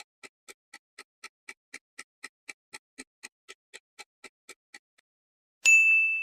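Countdown-timer sound effect: clock ticks about four a second for nearly five seconds, then a bright bell ding near the end, ringing on as it fades, marking time up.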